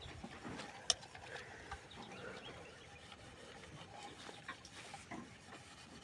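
Utensils being washed by hand: faint rubbing and light knocks, with one sharp click about a second in.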